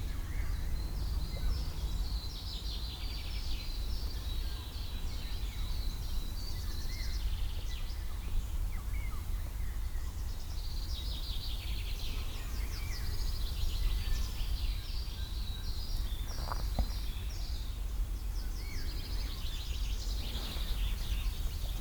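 Birds chirping and trilling in repeated bursts over a steady low rumble, with a single short click about seventeen seconds in.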